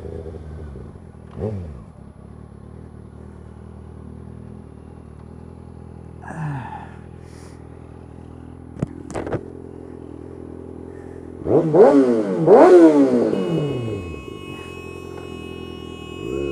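2013 Kawasaki ZX-6R 636's inline-four engine idling through an aftermarket M4 GP-style exhaust, with a short throttle blip about a second and a half in and two sharp revs about twelve seconds in, the loudest part.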